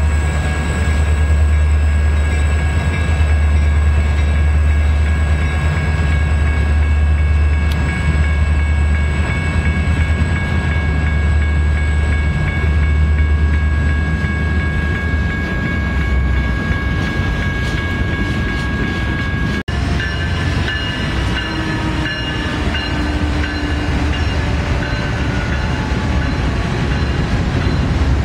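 Diesel freight locomotives hauling a double-stack train, running with a heavy low engine rumble and steady high whines. There is an abrupt break about two-thirds of the way through, after which the rumble is lighter and the whines waver as another stretch of train goes by.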